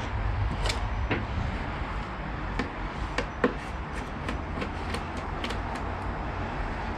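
Scattered light clicks and knocks of plastic motorcycle fairing pieces and their clips and screws being handled and pried loose, the sharpest about three and a half seconds in, over a steady low hum.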